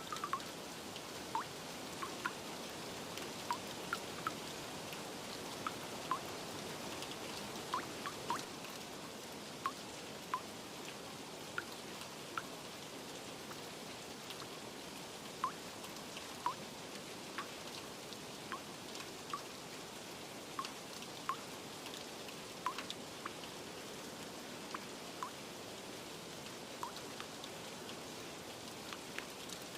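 Steady rain, with single drops plinking irregularly on top, about one a second.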